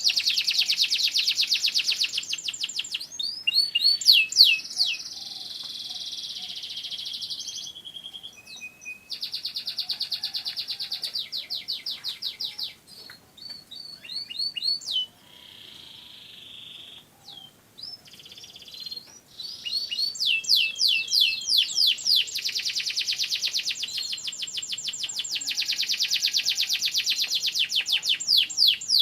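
Domestic canary singing: long trills of fast, evenly repeated high notes. The song turns quieter and more broken for a stretch midway before the loud trills return.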